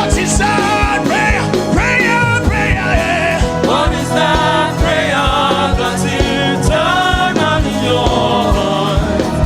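Gospel worship music: a solo voice singing with sliding, held notes over sustained chords and a steady drum beat.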